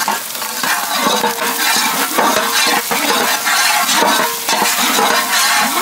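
Sliced green chillies, shallots and curry leaves sizzling in hot oil in a large pot, stirred and scraped with a wooden ladle.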